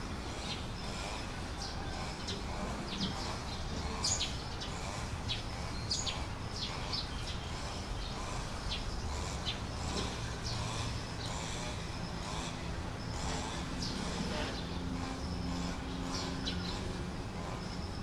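Small birds chirping in short, quick calls over a steady low rumble of background noise. About two-thirds of the way through, a low steady hum joins in for a few seconds.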